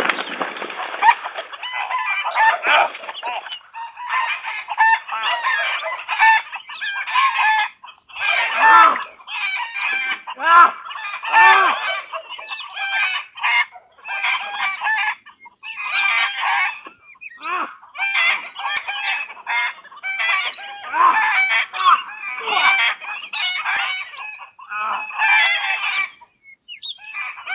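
Fowl clucking and squawking in short, repeated runs of calls with brief gaps between them.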